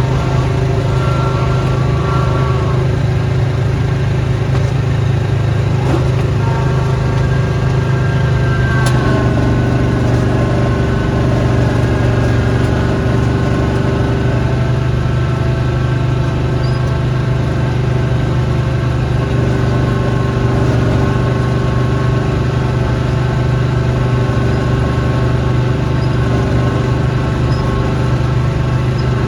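Small gasoline engine of a snowblowing machine running steadily, a constant low hum with a few steady tones above it that shift slightly about nine seconds in.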